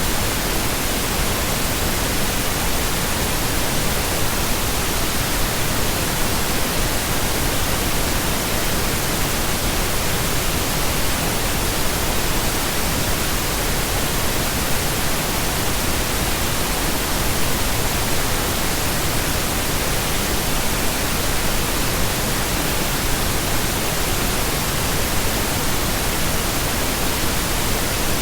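Steady, unchanging pink noise: an even hiss across all pitches, with no events or variation.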